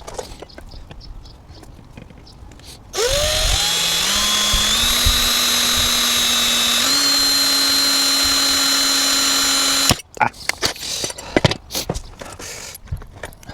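Power drill boring a hole through a solar panel mounting bracket for a self-tapping screw: the motor spins up, runs steadily for about seven seconds with its pitch stepping up twice, then cuts off suddenly. Knocks from handling the bracket come before and after.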